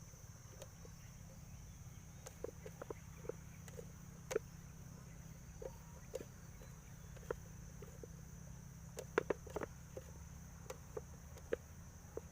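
A steady high-pitched insect drone runs under a low rumble, broken by scattered soft taps and clicks from close-by handling, with a brief cluster of louder clicks about nine seconds in.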